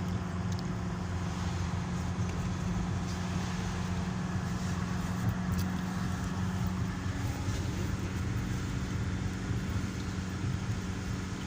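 Steady road noise from a moving car, a low even hum with tyre and engine noise that holds level throughout.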